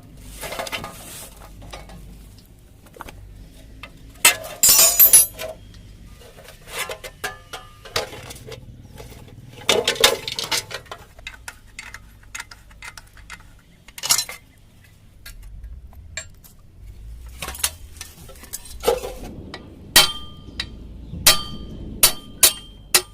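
Metal tools and parts clinking, knocking and scraping during workshop restoration work, with a run of sharp ringing metal taps near the end.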